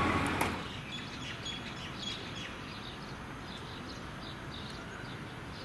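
A Siemens electric train's running noise cuts off about half a second in, leaving a quieter steady background with small birds chirping over and over in short high calls.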